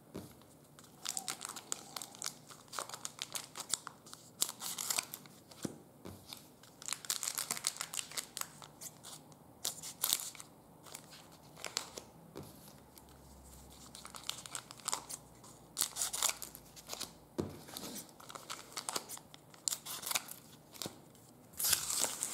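Trading card pack wrappers crinkling and tearing as packs are opened and cards handled: irregular crackling rustles and light clicks, coming in clusters with short pauses between them.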